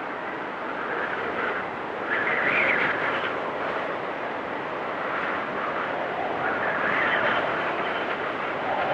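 Storm wind blowing in gusts with a whistling edge, swelling twice, at about two and a half seconds and again around seven seconds, with a faint high whistle near the second gust.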